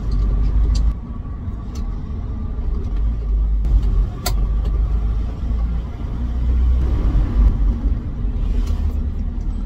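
Morris 1800S 'Landcrab' on the move, heard from inside the cabin: its 1.8-litre B-series four-cylinder engine running under steady, low engine and road noise. A single sharp click about four seconds in.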